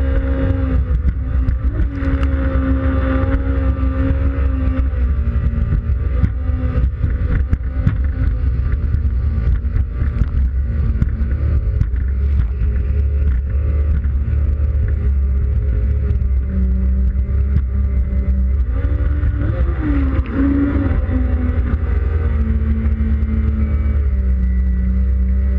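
Yamaha WaveRunner FX Cruiser High Output jet ski engine running under way, its pitch dropping and wavering as the throttle is eased and opened again, with wind and water spray buffeting the camera microphone.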